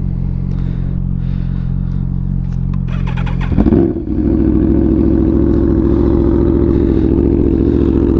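2014 Aprilia RSV4's V4 engine idling through a full, straight-piped exhaust. About three and a half seconds in, the idle gets louder and fuller and stays so.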